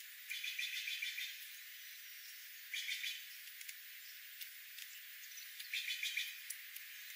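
Small birds chirping in three short bursts of busy chatter, with scattered ticks and a steady hiss between them.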